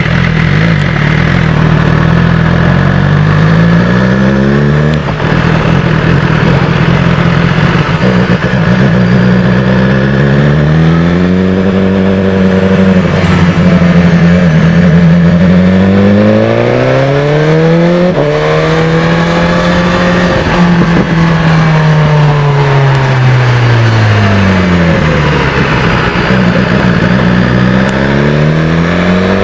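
BMW S1000XR's inline-four engine through a Termignoni exhaust, its pitch climbing, holding and falling repeatedly as the revs rise and drop, with sudden drops about five and eighteen seconds in.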